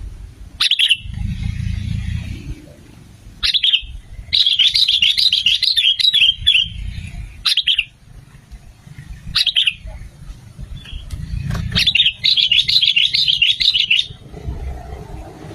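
Sooty-headed bulbuls (kutilang) calling: sharp single notes every couple of seconds, and two bursts of rapid chattering song, about four seconds in and about twelve seconds in. A low rumble runs underneath.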